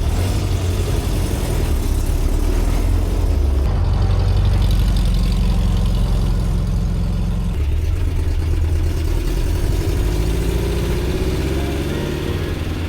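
Air-cooled flat-four engine of a Volkswagen bus running while driving, a steady low drone whose pitch changes a couple of times and then climbs steadily over the last few seconds as it accelerates.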